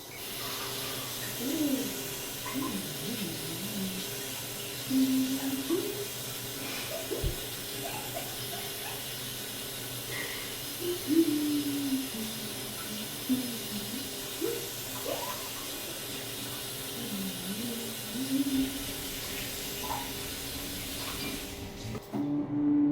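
Steady hiss of running water, with faint voice-like sounds rising and falling over it.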